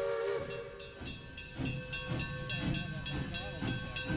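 Narrow-gauge steam locomotive standing at the station: its chime whistle sounds a chord that cuts off about half a second in, followed by steady steam hissing with irregular soft puffs.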